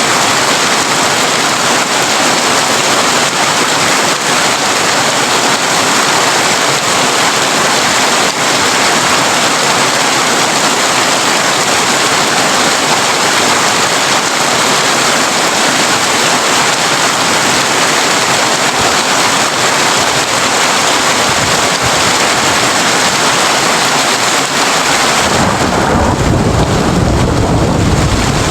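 Heavy rain drumming steadily on a tin roof. About 25 seconds in, a low roll of thunder rumbles in under it.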